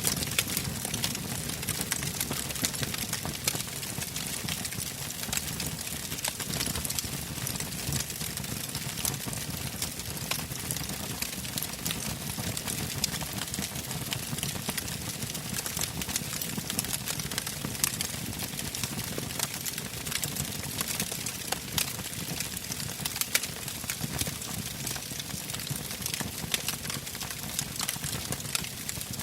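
Wood campfire burning, with frequent irregular crackles and pops over a steady low rush of flame.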